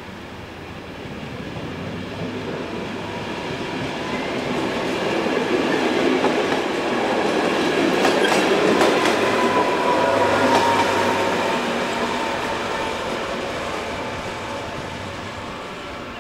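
Czech Railways diesel passenger train passing at close range: a rising rumble as it approaches, wheels clicking over rail joints as the coaches go by about eight to ten seconds in, then fading as it moves away.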